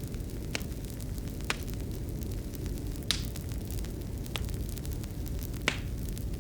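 Fireplace fire burning, a steady low rumble of flames with sharp crackling pops at irregular intervals, about five of them, the loudest about three seconds in and near the end.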